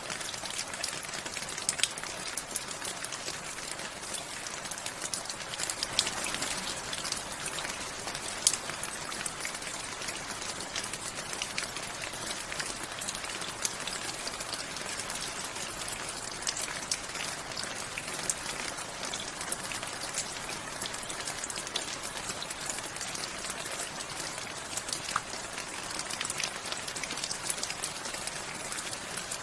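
Steady rain, a constant hiss with many individual drops ticking sharply on a hard surface.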